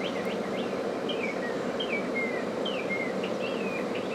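A small bird calling over and over, a series of short falling notes a few under a second apart, over a steady background hum.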